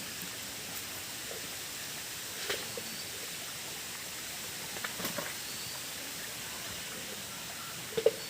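Steady hiss of rainfall, with a few brief sharp sounds about two and a half, five and eight seconds in.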